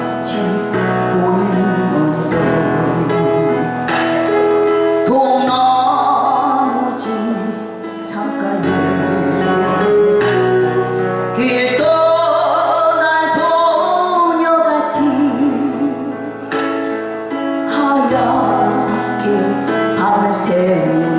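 Korean trot song sung live over a backing track: a singer's voice with vibrato carries the melody over a band accompaniment with a steady beat.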